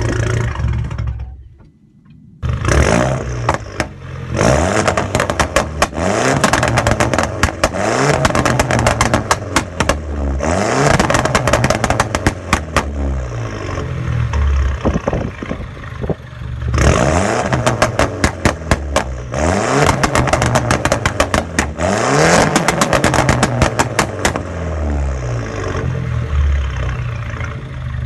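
Straight-piped 2009 Mini Cooper S R56's turbocharged 1.6-litre four-cylinder being revved through the bare exhaust. After a brief drop about two seconds in, it comes back in several rev bursts that climb and fall, with dense rapid crackling and popping, then settles to a loud idle near the end.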